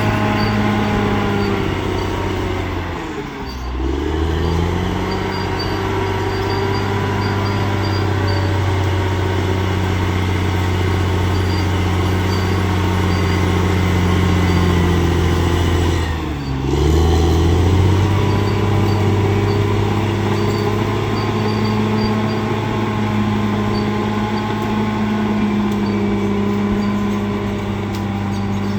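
Bulldozer's diesel engine running steadily, its pitch dipping sharply and recovering twice: a few seconds in and about halfway through.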